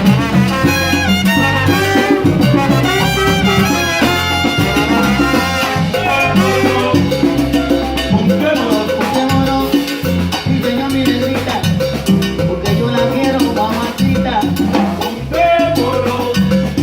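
Live salsa band playing, with percussion and horns over a steady rhythm.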